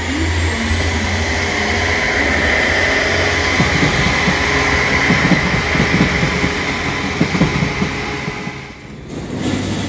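A train running past on the tracks with a loud steady rumble and a high steady whine. A run of wheel knocks comes in about three and a half seconds in and lasts some four seconds, and the sound falls away sharply near the end.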